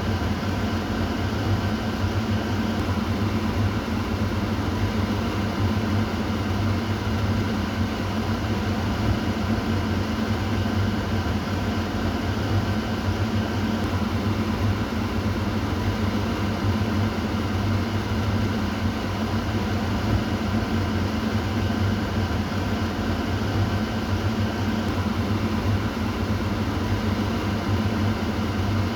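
Kitchen exhaust fan running steadily, a constant hum of motor and moving air with a low drone.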